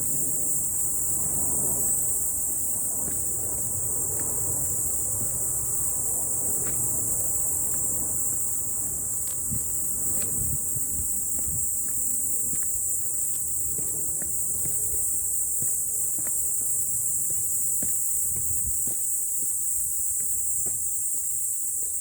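A steady, high-pitched insect chorus that does not let up, over low rustling with scattered light ticks and knocks.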